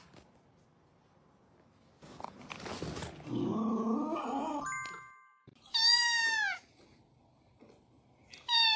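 Cat meowing: one loud, drawn-out meow falling in pitch about six seconds in, and a second one starting near the end. Before them comes a few seconds of rustling noise and a short chime.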